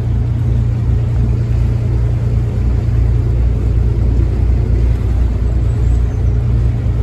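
A barge's inboard engine running steadily, a constant low rumble and hum.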